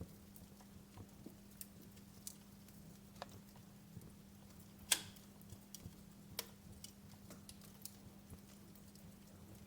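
Wood fire crackling in a fireplace: scattered sharp pops and ticks from the burning logs, with one louder pop about halfway through, over a faint steady low hum.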